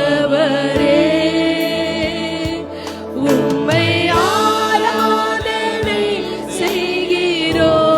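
Tamil Christian worship song sung with instrumental accompaniment: voices hold and bend long notes over a beat of percussive strokes.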